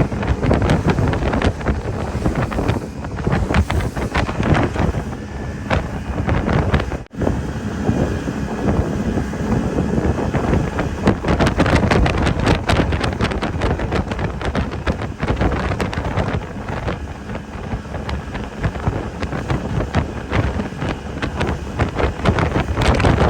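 Heavy wind buffeting the microphone on a speedboat running at speed, with the boat's engine and rushing water underneath. The sound drops out for a split second about seven seconds in.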